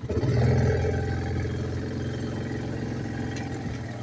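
ATV engine throttling up just after the start, then running steadily under way.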